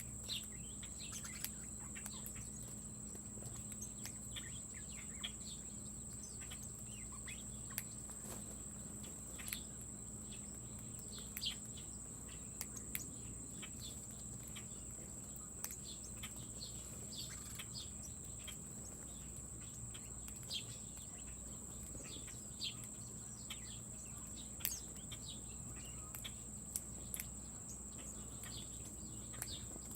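Small birds chirping in short, scattered calls, over a steady high-pitched whine and a low hum.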